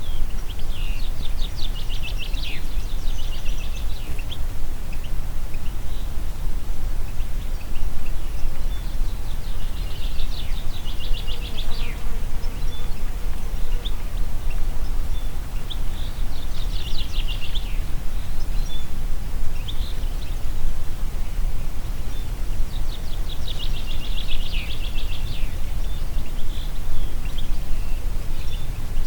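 Steady low wind rumble, with a songbird singing short, rapid trilled phrases over it about every five seconds.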